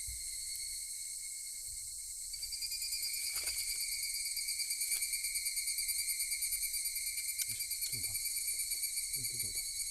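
Singing insects trilling in a steady, high-pitched chorus, with a second, rapidly pulsing trill joining about two and a half seconds in.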